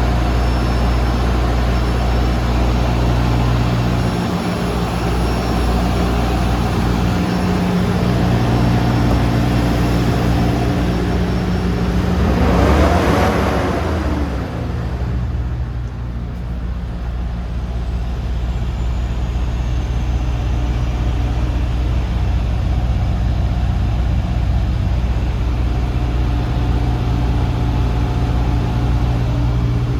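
DAF CF250 truck's diesel engine idling steadily, with a brief swell in sound about halfway through.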